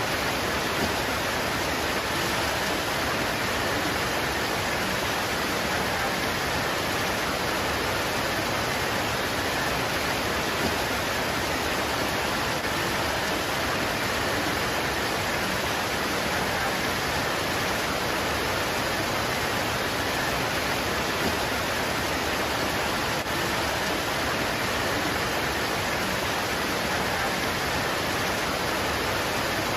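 Steady heavy rain pouring onto leaves: an even, unbroken hiss with no separate drops standing out.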